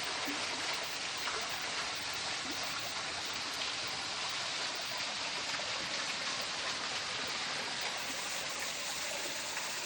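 Water flowing at a small waterfall and stream, a steady even rush.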